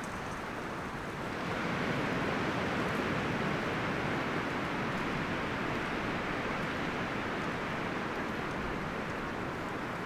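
Wind gusting through forest leaves and branches, a steady rustling hiss that swells about a second and a half in and slowly eases off.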